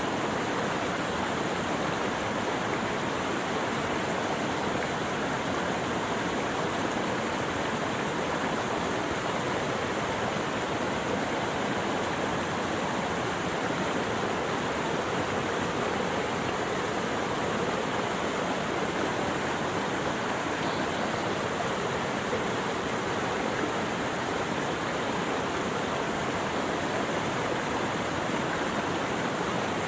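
Steady, unbroken rush of flowing water, without tones, calls or individual drops standing out.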